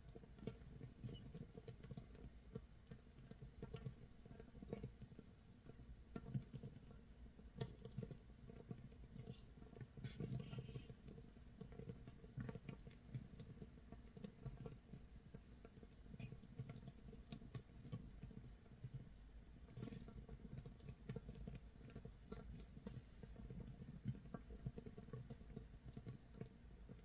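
Makgeolli starter (mitsul) fermenting in an earthenware jar: a faint, continuous, irregular crackle of tiny pops as carbon dioxide bubbles burst at the surface, like light rain or firewood crackling. The mash is actively fermenting, about 24 hours after it was set.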